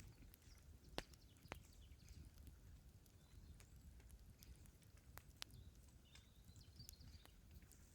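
Faint wood campfire crackling: a few scattered sharp pops over a low outdoor rumble, the loudest about a second in.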